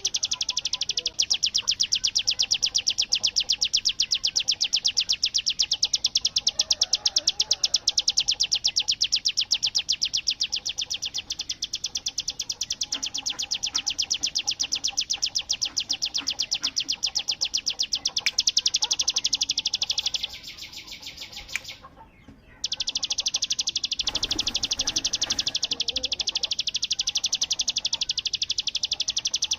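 A ciblek (prinia) singing a long, rapid, machine-gun-like 'bren' trill of high, evenly repeated notes. About two-thirds of the way through it weakens and breaks off for under a second, then starts again at full strength.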